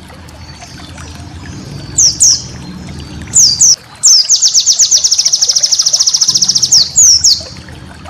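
White-eye (pleci) singing: a few sharp, high downward-slurred whistles, then a fast, even high trill of about ten notes a second lasting some two and a half seconds, then more slurred whistles. A low steady rumble runs underneath.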